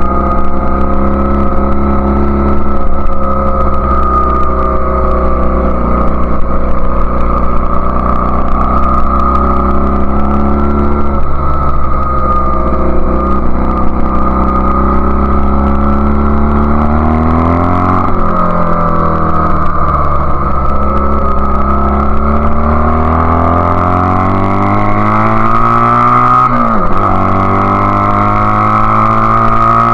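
1999 Honda Rebel CA125's 125 cc parallel-twin engine running loud through a BSM/Highway Hawk aftermarket exhaust while riding. The engine pitch climbs as it pulls and drops sharply at gear changes, clearly about two thirds of the way in and again near the end.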